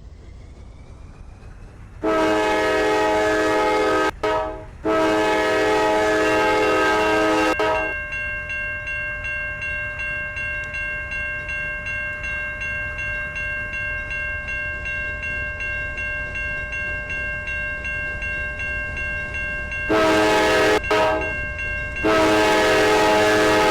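Locomotive air horn sounding several chords at once in long blasts, about two seconds in and again near the end. Between the blasts a steadier ringing tone pulses about two or three times a second.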